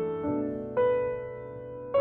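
Background music: a soft piano playing slow chords, a new chord struck about every half second to a second, each ringing and fading.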